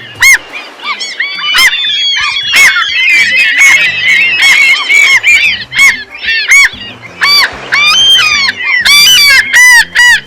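A flock of gulls calling, many short arched cries overlapping into a dense chorus through the middle, with loud single cries near the end.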